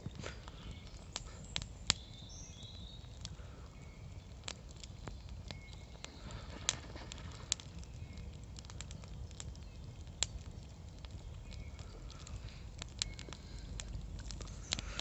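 Campfire burning down, the wood crackling with irregular sharp pops over a faint low hiss.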